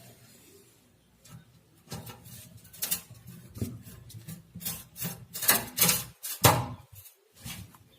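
Irregular clicks, knocks and scraping of hand work fitting an amplifier's front panel with screws, quiet at first and busiest a little past halfway.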